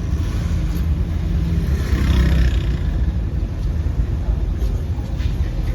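Busy street traffic with a steady low rumble of engines; one vehicle passes close, louder, about two seconds in.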